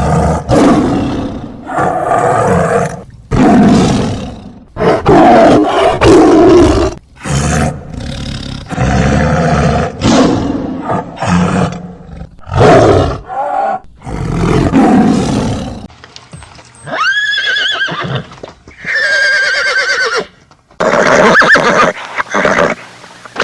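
A big cat roaring and growling in a long run of separate loud calls, then, about two-thirds of the way through, a horse whinnying twice with a high, wavering pitch.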